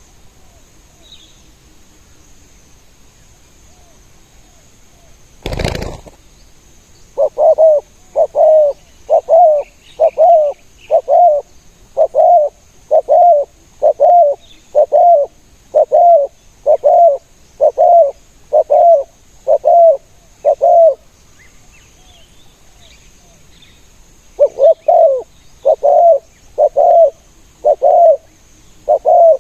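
Spotted dove cooing in rapid repeated phrases, about one coo a second, pausing briefly before starting another run. A short burst of noise comes about five seconds in, before the cooing starts, and faint chirps of small birds sound in the background.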